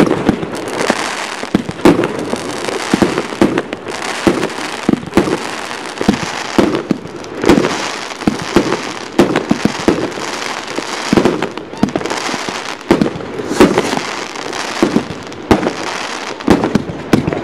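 Aerial fireworks going off in quick succession: many sharp bangs at irregular intervals, with crackling between them.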